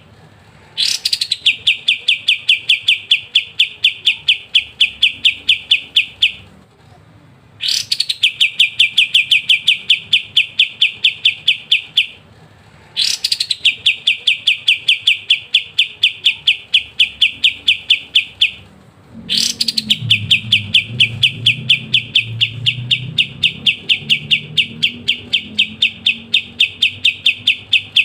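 Cream-striped bulbul (kapas tembak) singing its long rattling 'ngebren' trill. Rapid, evenly repeated notes, each burst opening with a sharp rising note, come in four long bouts of about five seconds, separated by brief pauses.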